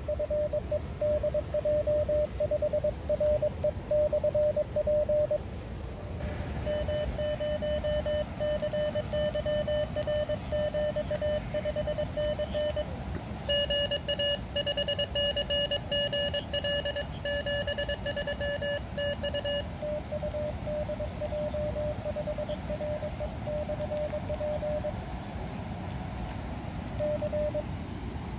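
Morse code (CW) tones from an HF ham radio transceiver, a tone keyed on and off in dots and dashes over hissing band noise. From about 7 s to 20 s a second, higher-pitched signal keys at the same time, as stations in a pileup call on top of one another.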